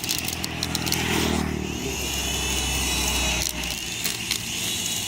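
Toy RC mini helicopter's small electric motor and rotor whirring, the pitch rising and falling, with several sharp clicks.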